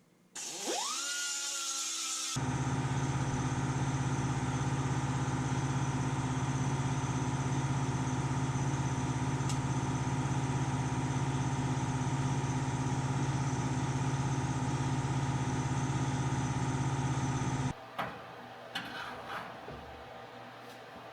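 A power tool's motor starts with a quickly rising whine, then runs steadily with a strong low hum for about fifteen seconds before cutting off suddenly, followed by a few light clicks.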